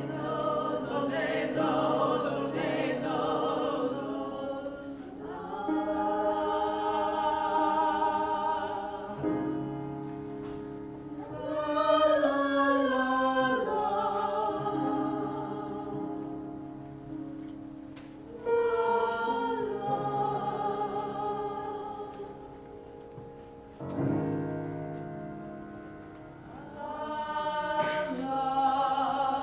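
Vocal music: singing in long held phrases that swell and fade, each new phrase entering suddenly, about half a dozen times.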